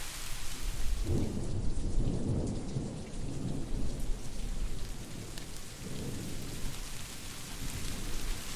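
Steady rain with a low rumble of distant thunder that swells about a second in and comes back more softly around six seconds.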